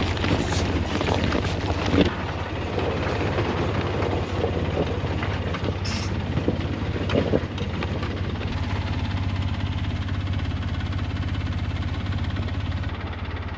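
Polaris Ranger side-by-side's engine running steadily, with knocks and rattles over the first half, then a smoother, even run.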